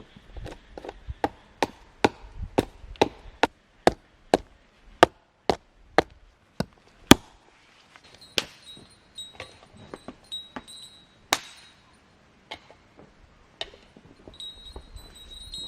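Sharp strikes on wood, about two a second and evenly paced for the first seven seconds, then fewer and more spread out.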